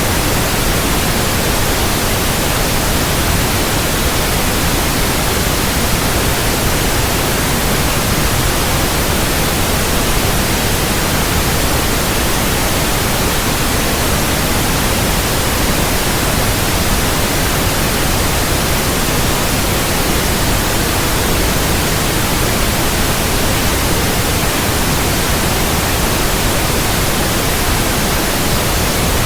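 Steady, loud white noise of the kind used to settle infants to sleep: an even hiss across all pitches that does not change.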